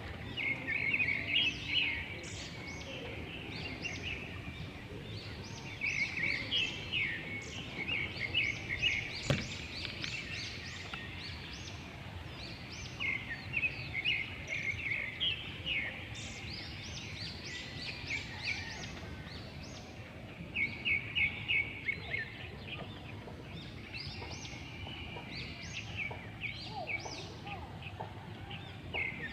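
Birds calling in quick chattering phrases of high, rapid chirps, each phrase lasting a second or two and repeating every few seconds, over a steady low background hiss.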